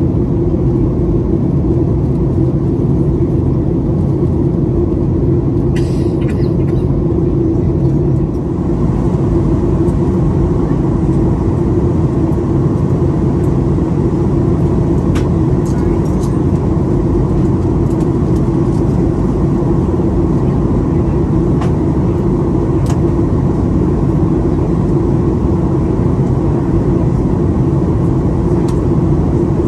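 Boeing 737-800 cabin noise in cruise: the steady sound of the CFM56 engines and the airflow, with a constant hum. A few faint clicks come through now and then.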